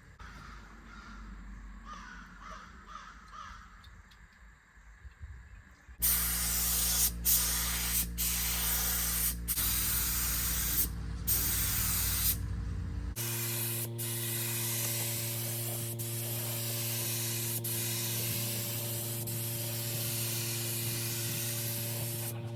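Paint spray gun hissing as oil-based enamel is sprayed. It starts suddenly about six seconds in, runs in short bursts at first and then continuously from about thirteen seconds, with a steady motor hum underneath.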